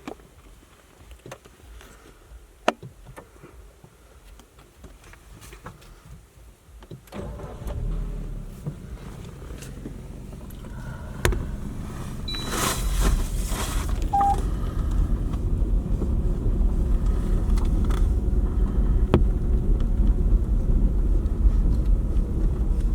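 Car interior: a few faint clicks and knocks, then about seven seconds in the engine starts and the car moves off, its engine and road rumble growing steadily louder.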